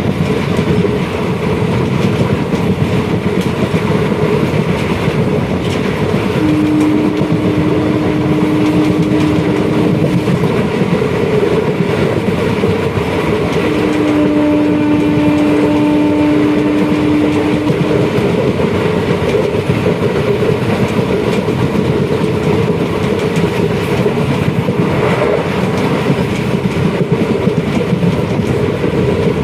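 A train running along the track with a steady rumble and clatter of wheels. Its horn sounds twice in long held blasts of about four seconds each, the first around six seconds in and the second around fourteen seconds in.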